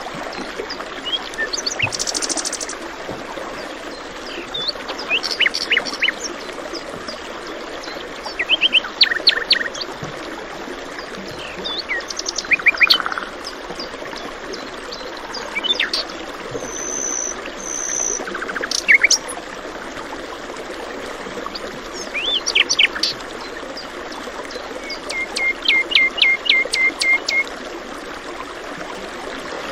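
Small birds chirping and calling over the steady rush of running water. Short calls come every couple of seconds, with a quick series of about eight rising notes near the end.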